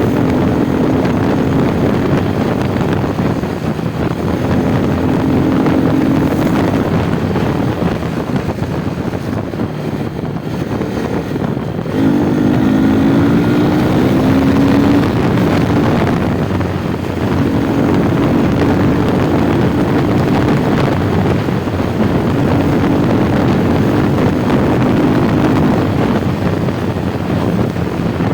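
Motorcycle engine running under way, with a steady rush of wind over the microphone. The engine note comes and goes, and about twelve seconds in it rises in pitch and gets louder as the bike accelerates.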